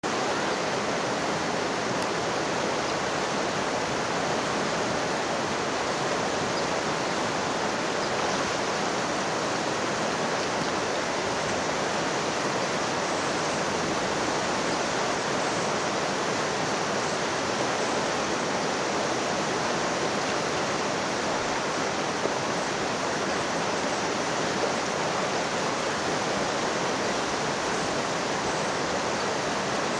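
Steady rush of whitewater in a river's rapids, even and unbroken.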